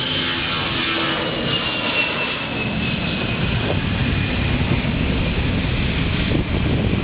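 Airplane engines passing close by: a high whine slowly falling in pitch over the first few seconds, over a steady rumble that grows rougher later on.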